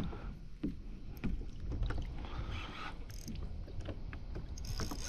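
Scattered small knocks and clicks from a kayak and its fishing gear over a low rumble, as a heavy fish is fought on the rod. About four and a half seconds in, a steady hiss joins.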